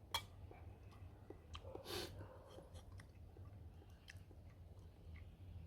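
A person chewing food with the mouth close to the microphone: faint, irregular small clicks and mouth sounds, with a slightly louder soft rustle about two seconds in.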